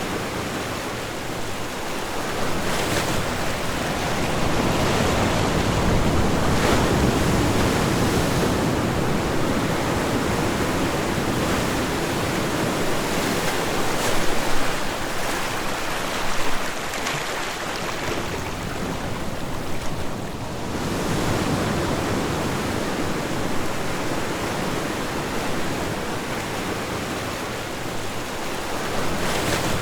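Ocean waves breaking and washing on a shore, a continuous surf that swells and eases every few seconds, with a couple of louder breaks in the middle.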